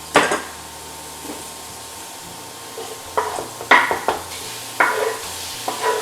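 Sliced chicken breast and red onion sizzling in a hot pan with mushrooms and a little oil as they are added and stir-fried, with a steady frying hiss. A sharp knock against the pan at the start, then a run of knocks and scrapes from about halfway through as the food is stirred.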